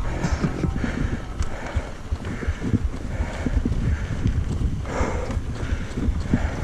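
Mountain bike rattling and clattering over rough singletrack, a dense, uneven run of small knocks from the frame and wheels on rocks and dirt.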